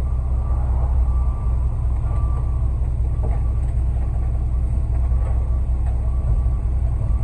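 Concrete mixer truck engine running steadily during a curb pour, a low, even sound with no changes in speed.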